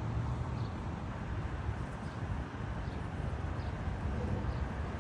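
Steady low rumble of road traffic from a nearby street, with faint short high chirps about once a second.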